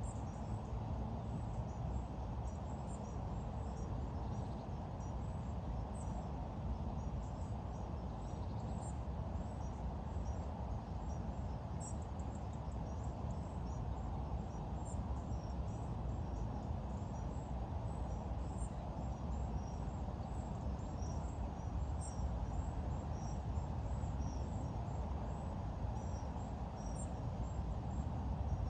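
Outdoor ambience: a steady low rumble with many short, high-pitched bird chirps scattered throughout.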